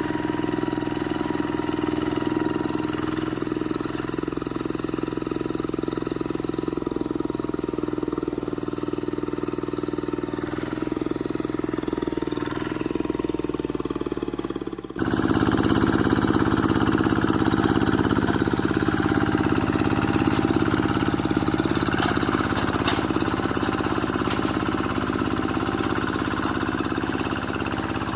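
Quick G1000 two-wheel hand tractor's engine running steadily. About halfway through it abruptly gets louder and harsher.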